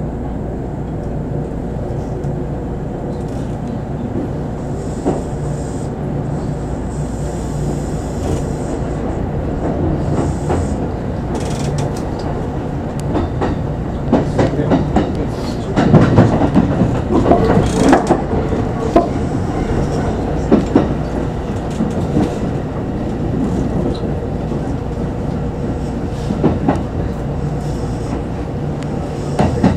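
Kintetsu electric express train pulling away from a station: a steady motor hum, with the wheels clattering over rail joints and points. The clatter is loudest as the train crosses the turnouts about halfway through, and fainter knocks follow. Heard from inside the train behind the driver's cab.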